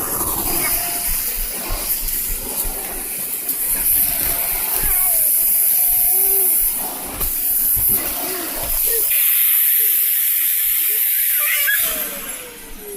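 Vacuum cleaner running with a loud hiss and high whine. Near the end it is switched off and its motor winds down, the pitch falling steadily.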